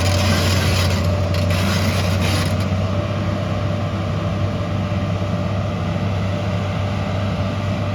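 Heavy earthmoving machine's engine running steadily, with a rasping scrape over it that stops about three seconds in.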